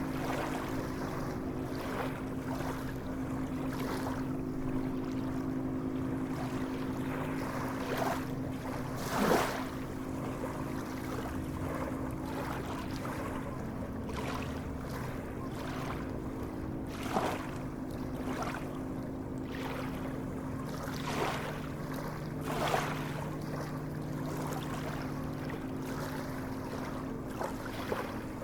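Sea waves washing and splashing, with a few louder splashes, the biggest about nine seconds in and others near 17 and 23 seconds, over a steady low hum.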